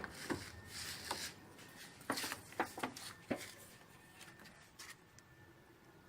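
A few scattered light knocks and clicks, about six in the first half, then faint background noise.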